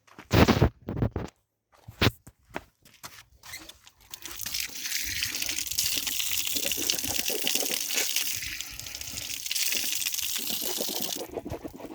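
Water running or pouring in a steady stream for about seven seconds, cutting off suddenly near the end, after a few knocks and handling sounds at the start.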